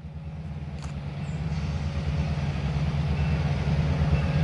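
Diesel locomotive engine running with a pulsing low rumble, fading in and growing louder.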